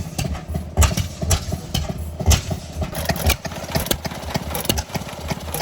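Antique gas engine running at a steady slow speed: a low chugging beat of about two thumps a second, with sharp clicks between them.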